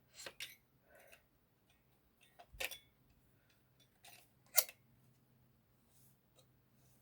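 Scattered short clicks and taps of small hard parts being handled on a work surface, the sharpest knock about four and a half seconds in.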